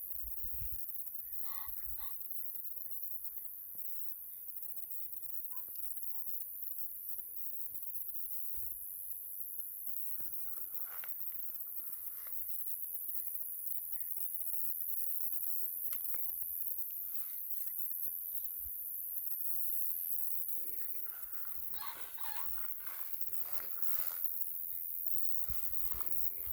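Steppe ambience: a steady, high-pitched insect chorus with scattered short bird calls, which grow busier about 22 seconds in.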